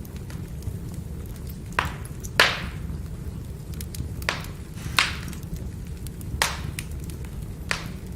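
Firewood fire burning with a steady low rumble, broken by six sharp pops of the burning logs, the loudest about two and a half seconds in.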